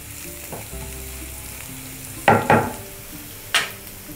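Chopped garlic, ginger, green chillies and cumin seeds sizzling in hot oil in a nonstick kadhai. A spatula strikes the pan three times, twice close together about two seconds in and once more near the end.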